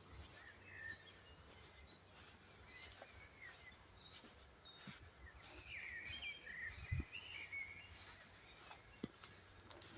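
Faint birdsong: scattered short chirps and twitters from small songbirds, densest between about three and eight seconds in. A single soft thud sounds about seven seconds in.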